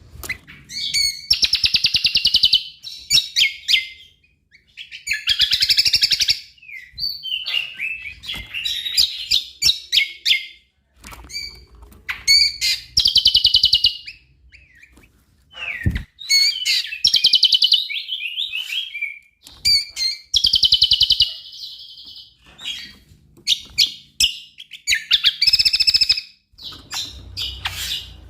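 Cucak kombo singing continuously. It repeats loud phrases of rapid trills and chirps, each a second or two long with short pauses between, in a full, varied song.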